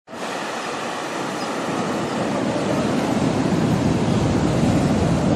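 Sea surf on a beach: a steady rushing of waves that starts abruptly and slowly swells louder.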